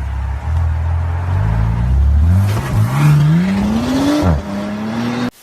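A car engine accelerating hard, its pitch climbing steadily for about four seconds. The pitch then drops and holds steady, and the sound cuts off abruptly near the end.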